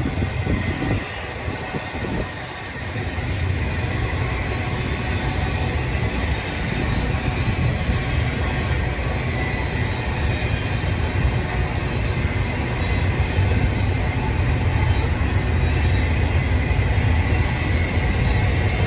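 Union Pacific freight train passing close by: a steady rumble and clatter of rail cars on the track, growing somewhat louder a few seconds in.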